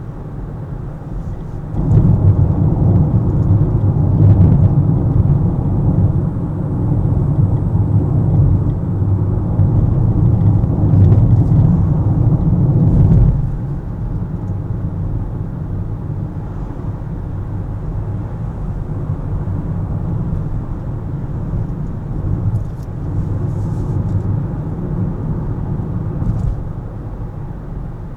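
Car being driven: a steady low rumble of engine and road noise that swells about two seconds in, stays louder for about eleven seconds, then drops back suddenly to a lower, steady level.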